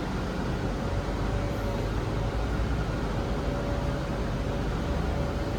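Cabin running noise of a Zhongtong hybrid range-extender city bus underway: a steady low rumble and road noise, with a faint steady whine.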